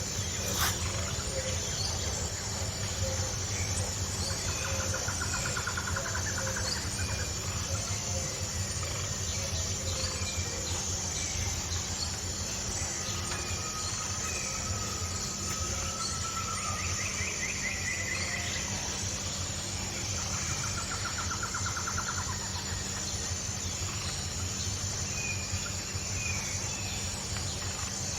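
Outdoor natural ambience: a steady high insect drone over a low rumble, with a few short, rapid trills from birds or insects now and then and a single click about half a second in.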